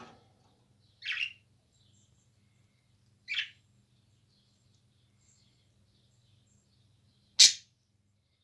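Small pet parrots calling: three short, high-pitched calls about two seconds apart, the last one loudest, near the end, with faint soft chirps in between over a faint steady low hum.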